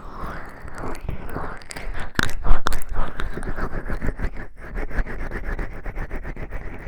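Oiled hands massaging the ears of a 3Dio binaural microphone: close, wet rubbing and squishing, loudest a little past two seconds in, then a fast run of short strokes.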